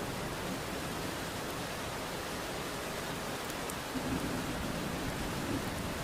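Steady rain falling with an even hiss, and a faint low rumble of distant thunder about four seconds in.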